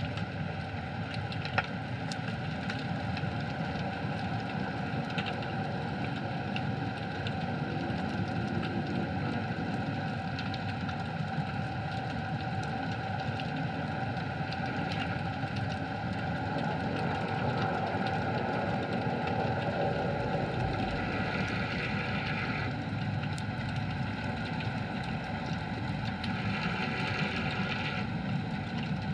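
Underwater ambience picked up by the camera: a steady low drone with scattered faint clicks, and two short stretches of brighter hiss about 21 and 26 seconds in.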